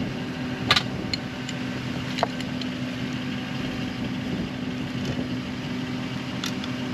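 An engine idling steadily, with a few sharp clinks: a loud one under a second in, another about two seconds in, and one near the end.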